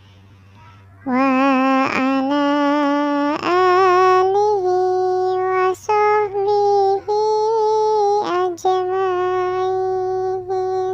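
A high, child-like singing voice chanting a sholawat melody in long held notes with vibrato, starting about a second in.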